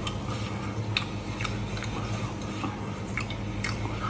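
Close-up wet chewing and lip-smacking of a man eating a glazed pork chop off the bone, irregular smacking clicks over a steady low hum.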